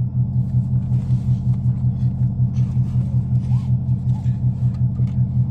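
The V8 engine of a Ford Mustang 5.0 running, heard from inside the cabin as a steady low rumble with a quick, even pulse.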